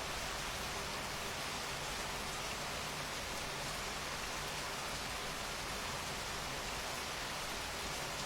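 Steady rain falling, an even hiss with no single drops or pauses standing out.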